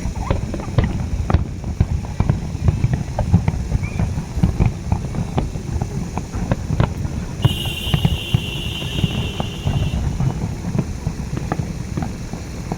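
Fireworks display: a rapid, irregular run of bangs and crackles over a low rumble. A steady high tone runs for about two and a half seconds a little past the middle.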